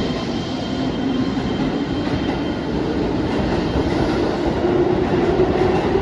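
Keihan electric train running, with a motor whine that rises steadily in pitch as it picks up speed, over a continuous rumble of wheels on rail.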